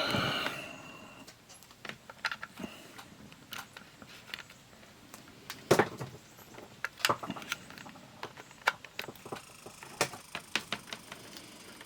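Irregular small clicks and taps from handling a multimeter and its parts during a hands-on repair. The sharpest click comes about six seconds in.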